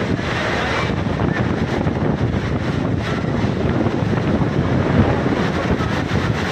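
Strong storm wind gusting hard against the microphone: a loud, steady rush of wind noise.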